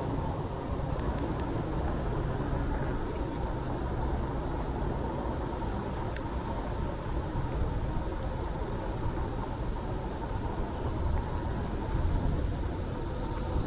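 Street traffic heard from a moving bicycle: a steady low rumble of road noise, with a higher hiss building near the end.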